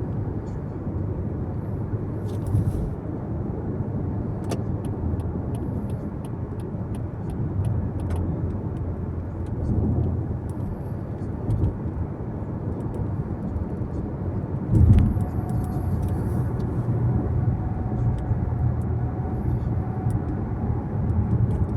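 A car driving along the road: a steady low rumble of tyre and road noise with engine hum, and a brief louder bump about fifteen seconds in.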